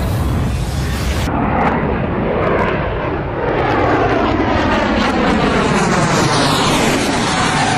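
Jet aircraft engine noise as a plane passes close by. The steady rush is overlaid by sweeping, phasing pitch bands that dip and rise again over a few seconds. The sound changes abruptly about a second in, as at a cut.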